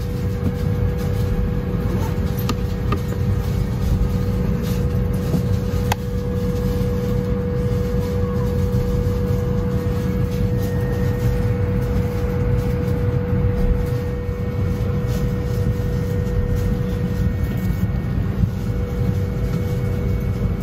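Airbus A320 cabin noise: a steady low rumble with a constant hum.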